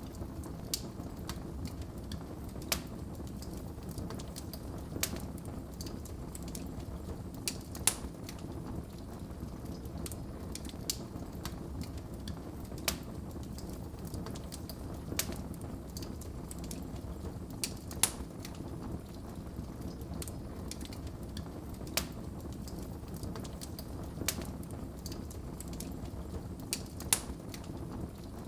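Wood fire burning in a fireplace: a steady low rumble of flames with sharp pops and crackles of burning logs at irregular intervals, one every second or few seconds.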